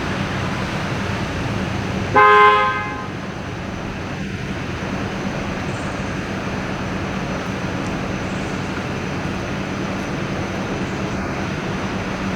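Steady road traffic noise with a low hum, and a single short vehicle horn toot about two seconds in.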